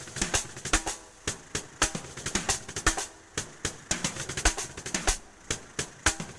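Improvised drum-kit solo: a fast, irregular run of snare and bass drum hits, with brief pauses between flurries.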